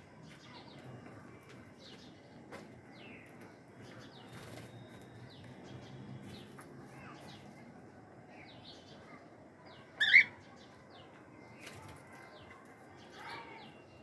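A flock of cockatiels chirping and calling in short, scattered notes, with one loud call about ten seconds in.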